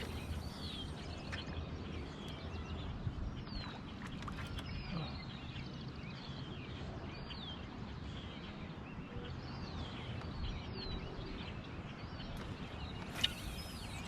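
A bird calling repeatedly with short, high, slurred notes every second or two over a steady low background rumble, with a sharp click near the end.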